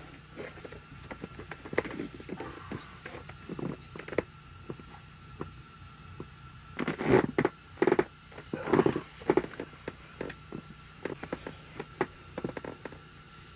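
Irregular knocking and clattering of objects being handled, the loudest knocks coming in a cluster a little past halfway, over a faint steady hum.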